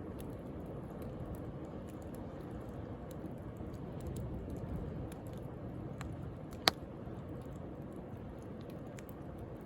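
Wood bonfire crackling, with scattered sharp pops and one loud snap a little after halfway, over a steady wash of sea waves.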